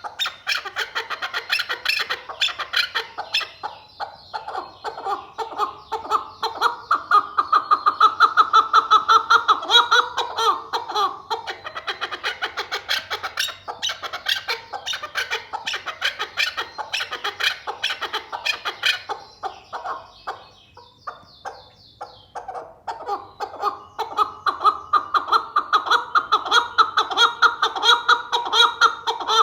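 Male chukar partridge calling: long series of rapid, repeated clucking notes that swell in loudness, ease off briefly about two-thirds of the way through, then build up again.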